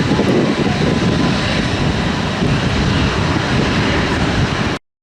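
Boeing 757 jet engines giving a loud, steady rumble that cuts off abruptly near the end.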